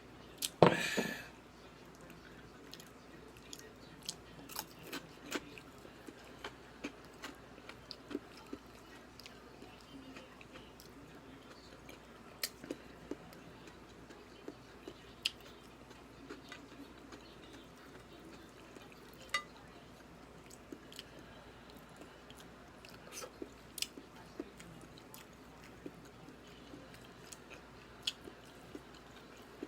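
A person chewing and eating close to the microphone: soft, irregular mouth sounds with many small scattered clicks. There is one louder, sharper burst about a second in.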